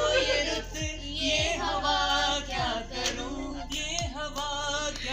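A woman singing a Hindi film song, with a low beat thudding underneath.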